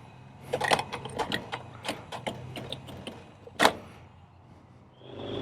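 A string of irregular sharp clicks and knocks of small mechanical handling, with one louder knock about three and a half seconds in. A rising rush of noise starts near the end.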